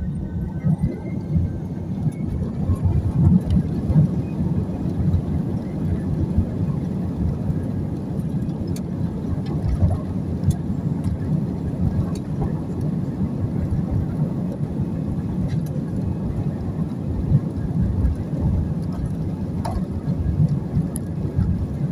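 Airliner cabin noise: a loud, steady low rumble of jet engines and wheels rolling, as on a taxi or takeoff run.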